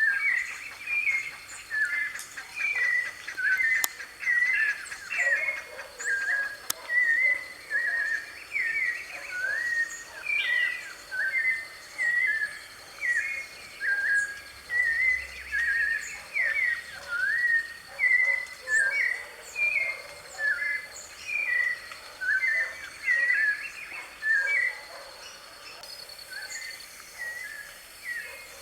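White-necked thrush singing a continuous run of short, varied whistled phrases, about one to two each second, growing somewhat quieter near the end. A steady faint high whine runs behind it.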